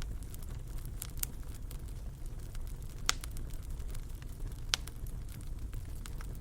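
Fireplace fire crackling: a steady low rumble of the flames with scattered sharp pops, the loudest about a second in, around three seconds in and near five seconds in.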